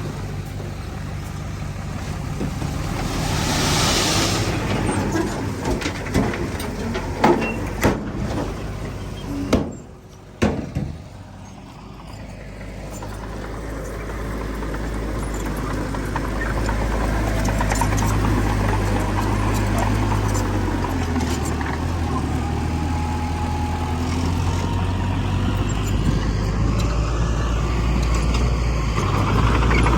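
Heavy diesel engines of a bulldozer and dump trucks working. Several sharp knocks come between about six and eleven seconds in, then the level dips briefly, and a steady low engine drone builds and holds through the rest.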